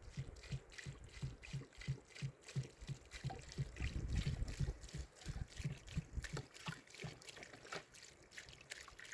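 Soft low thumps repeating at about three a second, with faint clicks, dying away near the end.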